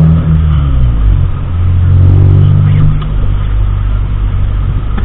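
Car engine and road noise heard from inside the cabin while driving. The engine note drops about a second in, climbs again, then eases off again about three seconds in.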